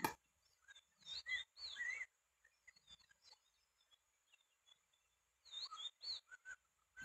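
Short chirping bird calls, quick notes sliding up and down in pitch, in one bunch about a second in and another near the end, with a sharp click right at the start.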